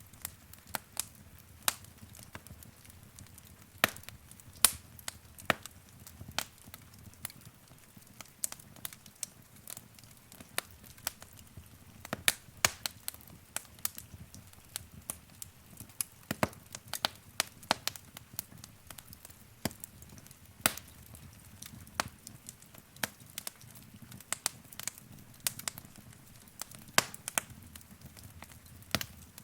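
Wood fire crackling in a fireplace: irregular sharp pops and snaps from the burning logs over a low, steady rumble of flame.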